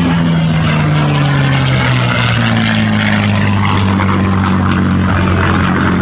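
Piston-engined propeller aircraft flying past a display line, its engine drone dropping in pitch over the first couple of seconds and then holding steady.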